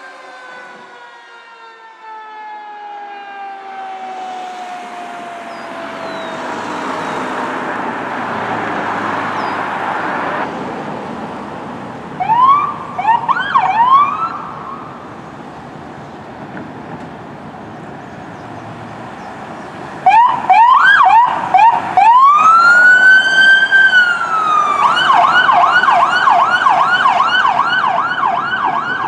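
Emergency vehicle sirens on responding fire apparatus: a siren slowly winding down at the start, then the rumble of a passing vehicle. Short siren chirps come near the middle and again later, then a long rising and falling wail switches to a fast yelp of about three to four cycles a second near the end.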